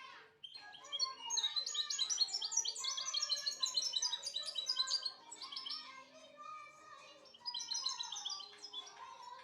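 European goldfinch singing: fast runs of high, twittering notes. A long phrase of about four seconds starts a second in, and a shorter burst comes near the end.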